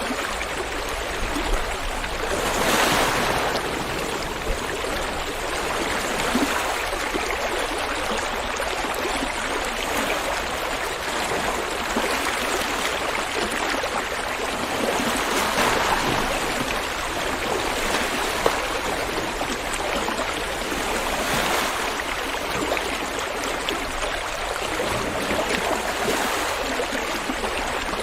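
River water flowing steadily over rocks, a continuous rushing and gurgling that swells a little now and then.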